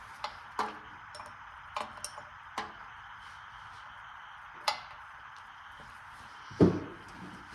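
Scattered sharp metal clicks and clinks of hand tools working at a stuck carburetor bolt on a small V-twin engine, with one louder knock about six and a half seconds in.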